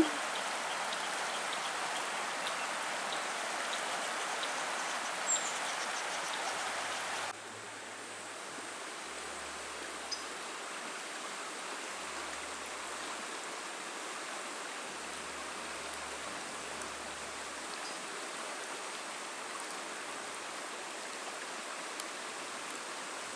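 Steady rushing of flowing river water, dropping abruptly to a softer level about seven seconds in.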